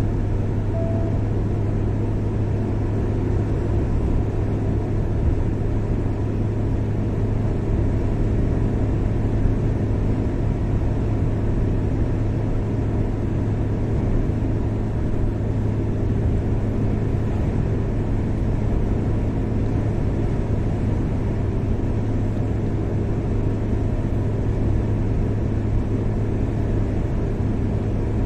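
Steady low rumble of a car driving at road speed: engine and tyre noise, unchanging throughout.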